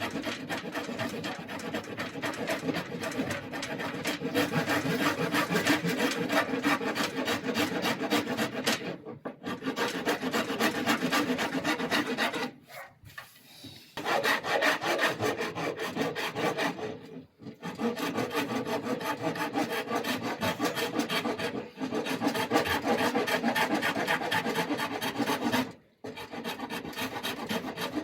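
Hand rasp working the wood of an oak bow limb, a fast run of scraping strokes with a few short pauses as the limb is tapered.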